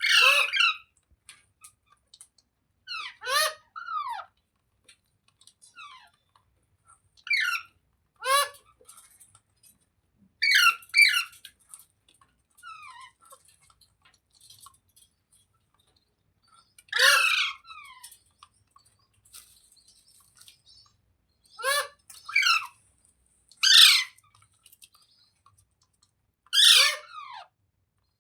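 Rose-ringed (Indian ringneck) parakeet calling: about a dozen short, loud calls, coming singly or in quick pairs every few seconds.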